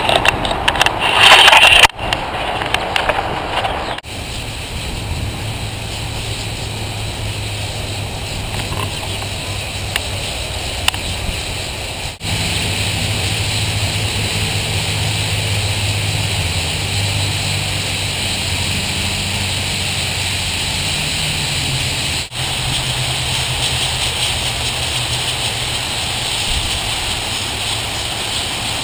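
Dense, unbroken din of calls from a huge flock of small black birds settling to roost in trees, over a low steady hum. The sound changes abruptly a few times, with a louder burst in the first two seconds.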